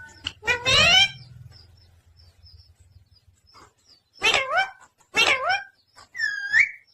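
Pet parrot giving short, loud pitched calls: one about half a second in, two more a second apart around the middle, and a higher whistled note near the end.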